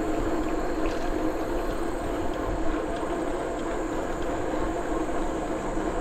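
Steady riding noise from a moving bicycle: tyres rolling with a constant low hum, and wind gusting on the microphone.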